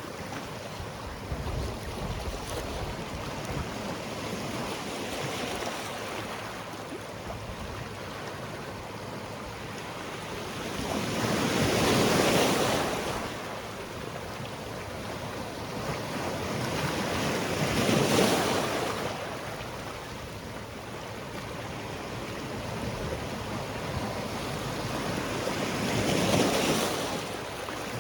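Sea waves breaking on a rocky shore, a steady wash with three larger waves cresting and falling back, about twelve, eighteen and twenty-six seconds in.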